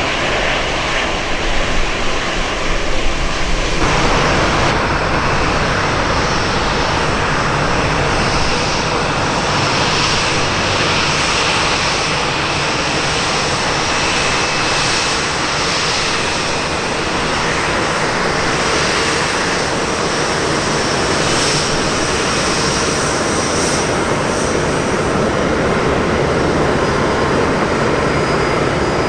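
Jet airliner engines, a loud, steady noise that turns abruptly brighter and hissier about four seconds in.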